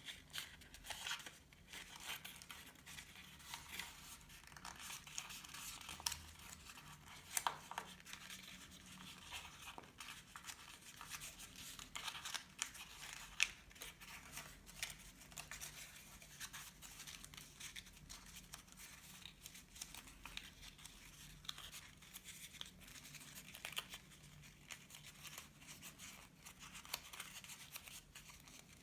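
Faint, close paper handling: note paper rustling, being creased and folded, with many short crisp ticks and snips scattered through.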